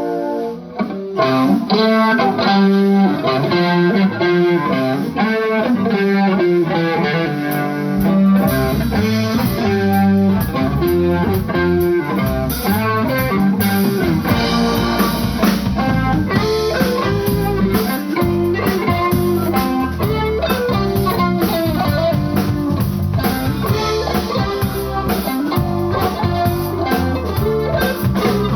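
Live blues band playing: electric guitar picking out the tune, with bass and drums coming in about eight seconds in.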